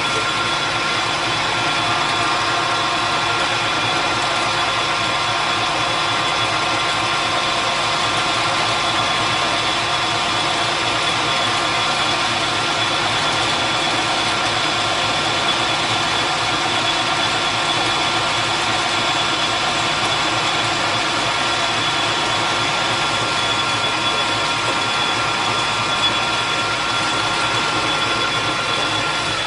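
Machine tool motor and spindle running steadily with a constant whine, taking a light cut of about ten thousandths of an inch to open up a bore toward size.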